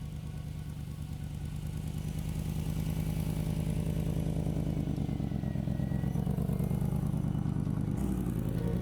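A vehicle engine running steadily with a fast, even throb, getting louder over the first three seconds and shifting slightly near the end.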